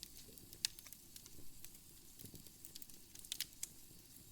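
Wood fire crackling in a fireplace: faint, with scattered sharp pops and snaps over a low steady hiss.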